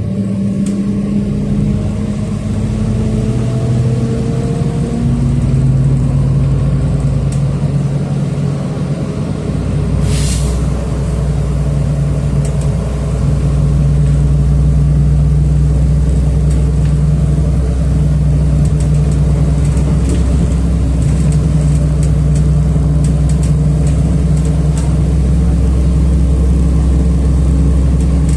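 City bus engine heard from inside the passenger cabin as the bus pulls away and accelerates, the engine note rising over the first few seconds. A short hiss of compressed air comes about ten seconds in, then the engine settles into a steady drone while cruising.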